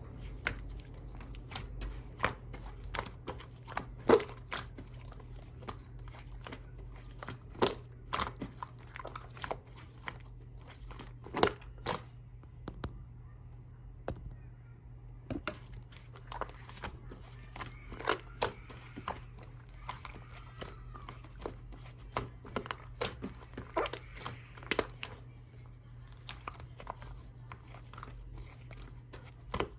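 Hands squeezing, poking and stretching slime, giving irregular sharp crackles and pops, several a second in busy stretches. A steady low hum sits underneath.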